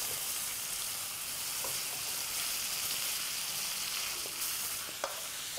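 Cooked spinach and vegetable mixture poured into hot ghee with fried garlic and whole spices in a wok, sizzling: a loud, steady sizzle starts abruptly as it hits the fat. A single sharp click comes about five seconds in.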